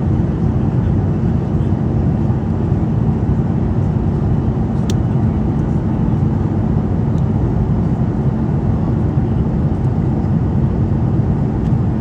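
Steady low roar of a jet airliner's engines and rushing air heard inside the cabin, with a steady hum underneath and a single sharp click about five seconds in.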